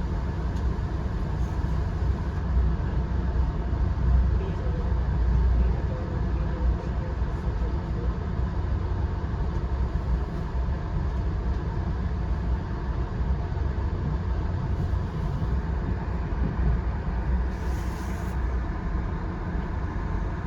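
Steady low rumble of a VIA Rail passenger train running on the rails, with a brief hiss near the end.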